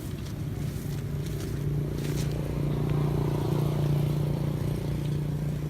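A motor vehicle's engine running with a steady low hum, growing louder toward the middle and easing off near the end.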